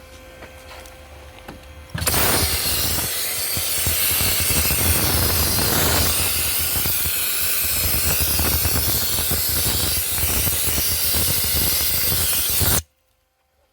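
Dry ice blaster nozzle blasting: a loud, rough hiss of compressed air and dry ice that starts abruptly about two seconds in and cuts off sharply near the end. A faint steady hum comes before it.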